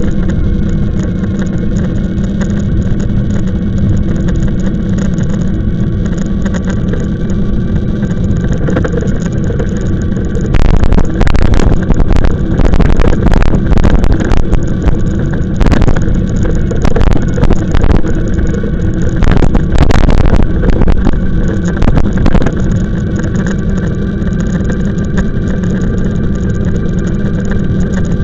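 E-bike ride noise: a steady low rumble with a faint whine running through it. Loud gusts of wind buffet the microphone repeatedly from about ten seconds in until a little past twenty seconds.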